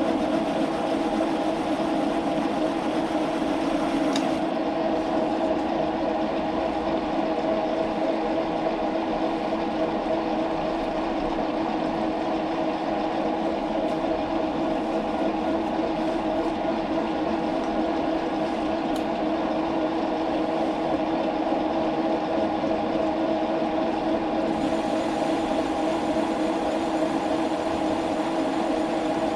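Metal lathe running with a steady hum while turning a part down to half an inch. A faint high hiss drops away about four seconds in and returns near the end.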